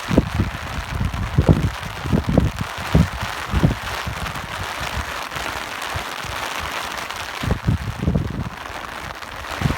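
Steady rain hissing, with gusts of wind buffeting the microphone in low rumbles that ease off in the middle and pick up again near the end.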